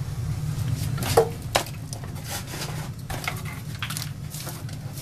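Several light clinks and knocks of hard objects being handled, the loudest about a second in, over a steady low hum.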